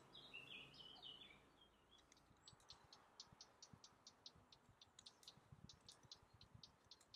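Near silence: faint birds chirping in the background, with a run of faint high ticks, about four a second, from a few seconds in.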